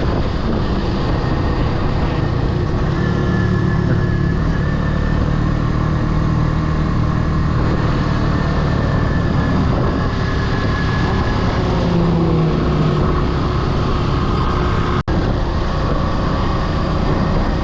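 Kawasaki W175's single-cylinder engine running while riding along a road, with heavy wind rush over the microphone. The sound is steady and the engine note shifts a little, with an instant's gap about fifteen seconds in.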